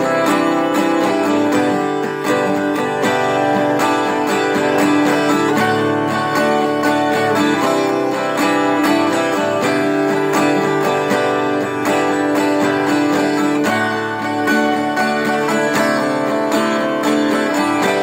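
Guitar strumming chords of a steady, upbeat instrumental built on D, C and G.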